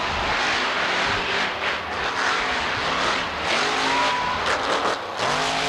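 Monster truck engines revving hard, their pitch climbing and dropping with the throttle, over a dense loud roar; a sharp climb in revs about four seconds in and again near the end.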